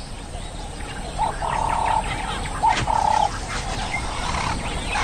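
A bird calling in bush ambience: two steady whistled notes, each about half a second long and a second apart, over a low background hiss.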